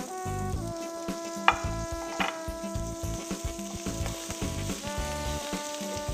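Shell-on shrimp sizzling as they sear in hot olive oil in a metal pan, with two sharp clicks of metal tongs against the pan about a second and a half and two seconds in as the shrimp are moved.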